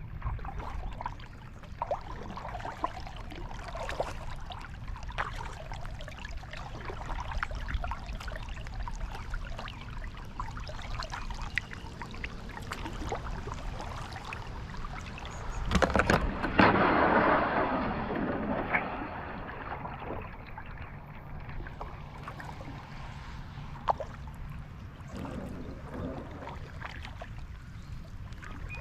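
Kayak paddle strokes dipping and splashing in lake water, with water sloshing against the hull. A louder rush of water lasts a few seconds a little past halfway.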